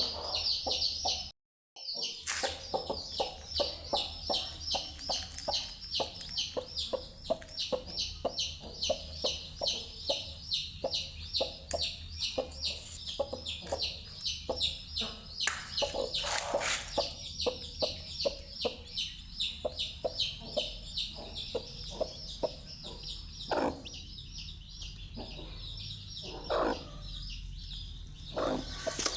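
Domestic chicks peeping rapidly and continuously in high-pitched calls, with a few lower hen clucks now and then. The sound breaks off for a moment about a second and a half in.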